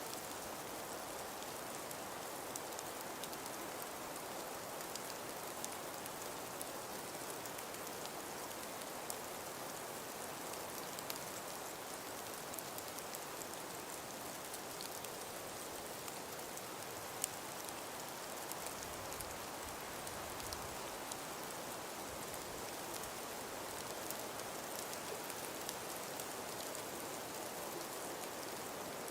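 Steady hiss of wind and falling snow, dotted with many faint scattered ticks of flakes landing. One sharper tick about seventeen seconds in, and a brief low rumble a little after.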